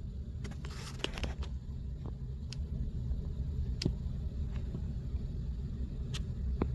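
Steady low rumble with a few short, light clicks and taps scattered over it, several close together about a second in.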